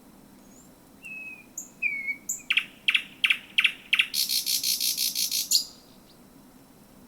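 Thrush nightingale singing one song phrase: a few short whistled notes, then four loud clicking strokes, then a fast dry rattle lasting about a second and a half, stopping about two seconds before the end.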